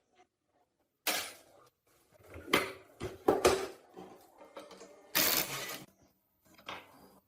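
Metal tools and parts knocking and clattering against each other and a hard surface: a handful of separate sharp clanks, with a longer scraping clatter about five seconds in.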